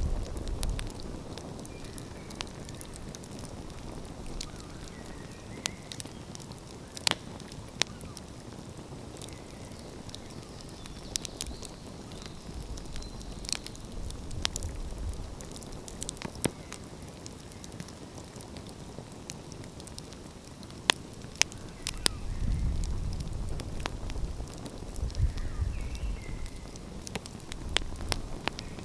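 Wood fire crackling, with sharp irregular pops and snaps over a soft steady hiss. A low rumble swells up twice, in the middle and again near the end.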